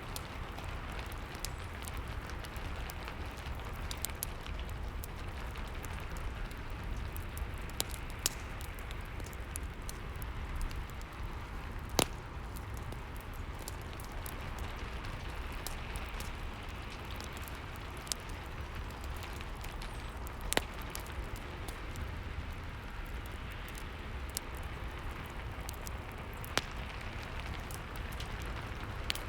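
Steady rain with a crackling fireplace: an even hiss of rain, with scattered sharp pops from the fire, the loudest about twelve and twenty seconds in.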